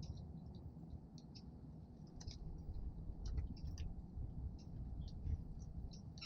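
Small birds at a feeder: scattered faint, high, short chips and clicks, a few to several a second, over a steady low outdoor rumble.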